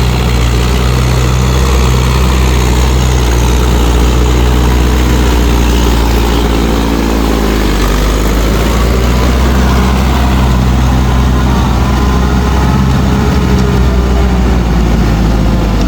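Mahindra 585 DI tractor's diesel engine running steadily and loudly, its pitch sagging about halfway through and then climbing back up.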